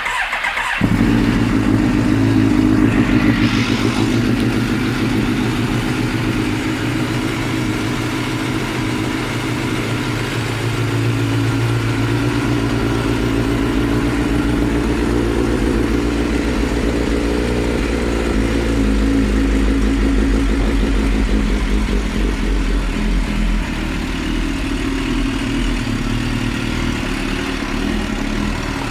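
2005 Suzuki GSX-R1000's inline-four engine running through an aftermarket exhaust just after starting. It picks up about a second in and is loudest for the first few seconds, then settles into a steady idle.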